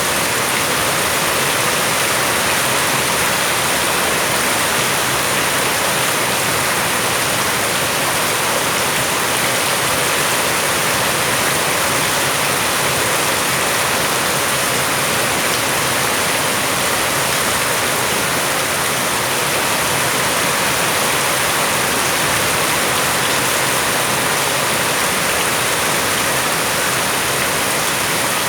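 Steady heavy rain falling, a dense even hiss of rain on surfaces with no break.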